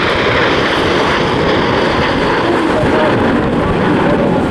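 BAE Hawk T1 jets flying in formation, their turbofan engines making a loud, steady rushing jet noise.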